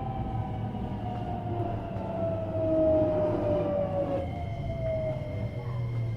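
JR West 321 series electric multiple unit's VVVF inverter and traction motors whining under a low running rumble, the whine's pitch falling steadily as the train slows under braking. A steady higher tone joins the whine about four seconds in.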